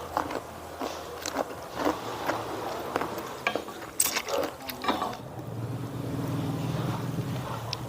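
Close-miked crunchy chewing and biting of food, a run of short crackles and clicks, giving way about five seconds in to a low steady hum.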